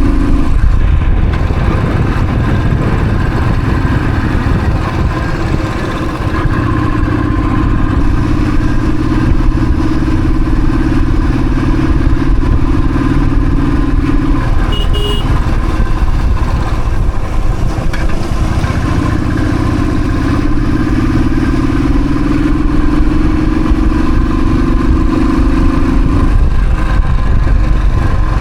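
Royal Enfield Thunderbird's single-cylinder engine running on the move, with heavy low rumble from wind on the microphone. The engine note rises and falls with the throttle, and there is a short horn beep about halfway through.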